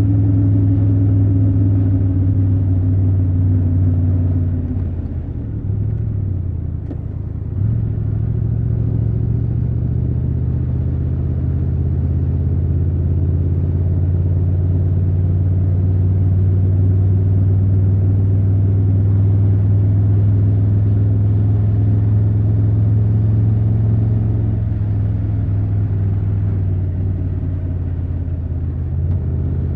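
Triumph Tiger 1200 Rally Pro's inline three-cylinder engine running at steady riding revs. About five seconds in the engine note drops and wavers for a couple of seconds, then picks up again and holds steady.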